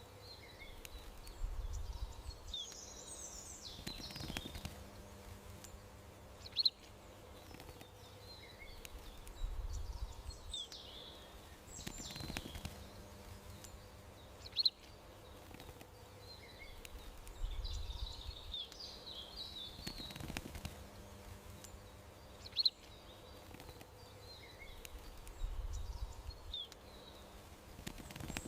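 Garden songbirds chirping and twittering, with a sharp, loud chirp about every eight seconds and a brief low rumble in between, over a faint steady hum; the same pattern repeats every eight seconds, like a looped ambience track.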